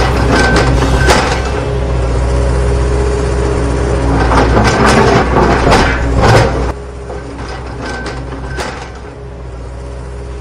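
Heavy vehicle engine running steadily, with scattered clicks and clatter over it; it drops in level about two-thirds of the way through.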